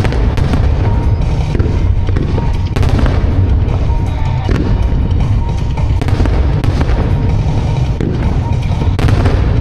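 A fireworks starmine, many aerial shells bursting one after another with deep booms and sharp cracks, set to a loud rock song played along with the display.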